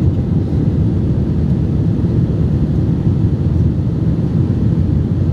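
Steady low rumble of airliner cabin noise, the jet engines and rushing air heard from inside the cabin as the plane climbs just after takeoff.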